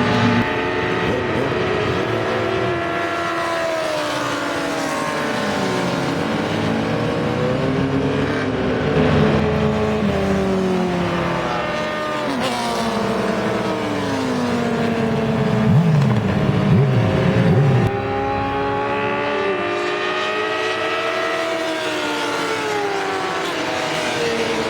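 Sport motorcycle engine at racing speed, its pitch climbing steadily as it accelerates and sweeping down as it slows. The loudest moment comes about two-thirds of the way in, with a sharp drop in pitch.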